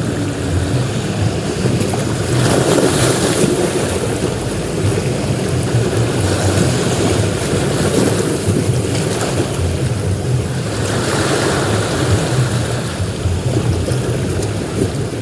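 Sea waves breaking on a beach: a continuous wash of surf that swells louder three times, a few seconds apart.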